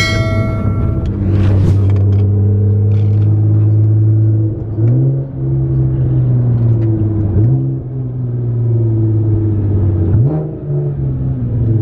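A motor vehicle's engine running with a steady low hum, its pitch jumping up briefly three times as it picks up speed. A short high pitched tone sounds in the first second.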